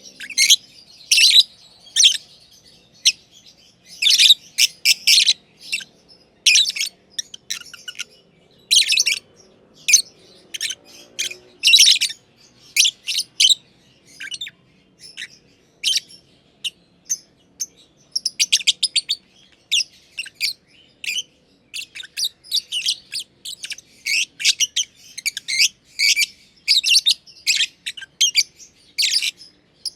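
Masked lovebirds (green and green pied) chirping: short, sharp, high-pitched chirps in rapid clusters, with brief pauses between bursts.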